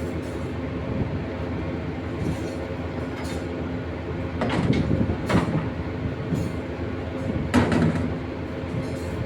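Heavy machinery running steadily with a low hum. Three short, louder scraping rushes come about halfway through and again near the end.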